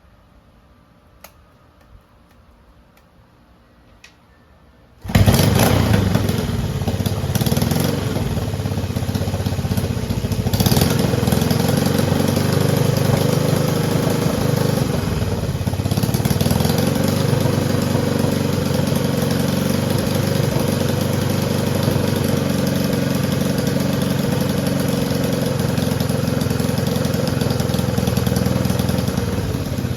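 A Honda CJ360's air-cooled parallel-twin engine starts up after a few faint clicks, catching suddenly about five seconds in and then running steadily at idle.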